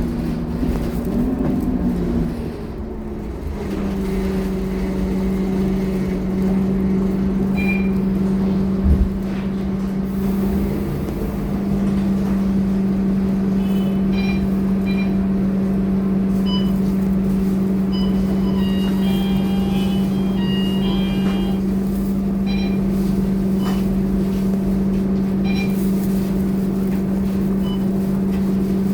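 Scania K230UB city bus's diesel engine running with a steady, even drone. Its pitch wavers and the sound dips briefly about two seconds in. A single knock comes about nine seconds in, and faint short high tones are scattered through the second half.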